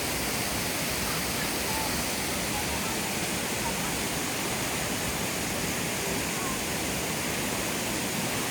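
Waterfall pouring: a dense, steady rush of falling water.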